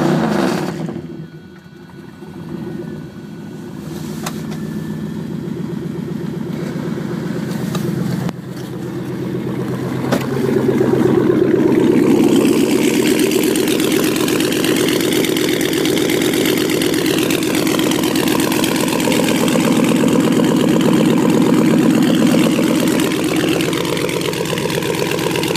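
1999 Chevrolet engine running after a cold start at about −37 degrees with no block heater. It drops back from a rev at the start, then idles with a steady rhythmic beat, picking up to a faster, louder idle about ten seconds in, with a faint high whine rising and falling midway.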